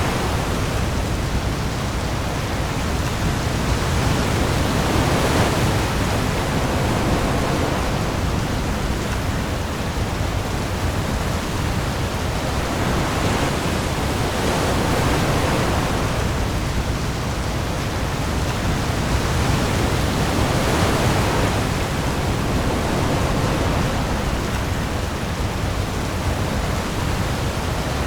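Heavy rain falling on the open sea with waves, a dense steady hiss that swells and eases every four to five seconds, over a deep low rumble.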